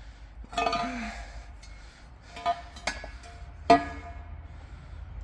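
Pieces of steel plate being handled and knocked together, giving short ringing metallic clanks: a cluster about a second in, then single clanks at roughly two-and-a-half, three and nearly four seconds.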